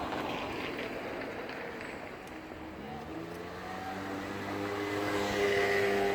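A motor vehicle engine draws near over street noise. Its pitch rises about halfway through as it speeds up, then holds steady while it gets louder toward the end.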